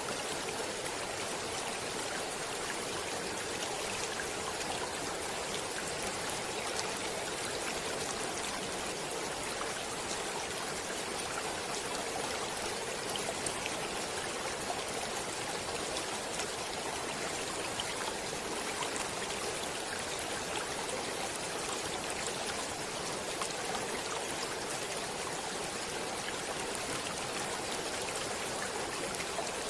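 A stream of water running steadily over stones, a constant rushing with small splashes and trickles.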